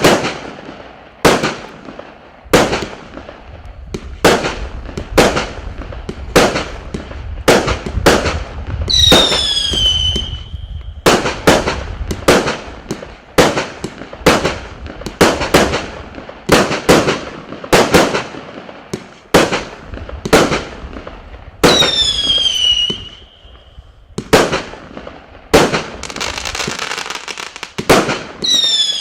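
A 100-shot firework cake firing shot after shot, a sharp bang about every two-thirds of a second. Three times a shot carries a falling whistle.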